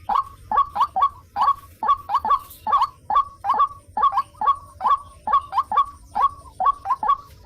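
White-breasted waterhen (ruak-ruak) calling: a continuous run of short, harsh notes, about three a second, often in twos and threes.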